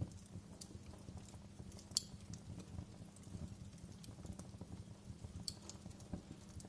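Wood fire crackling in a fireplace: a low steady rumble with scattered small crackles and sharp pops, the loudest snap about two seconds in and another near the end.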